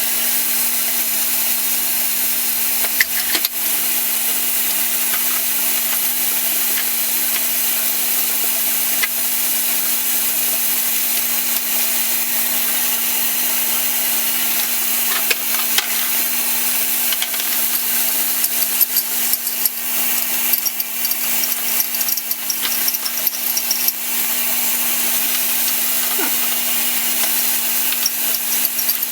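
A power tool running steadily: a constant hum under a loud, even hiss, with scattered clicks and ticks that grow busier in the second half.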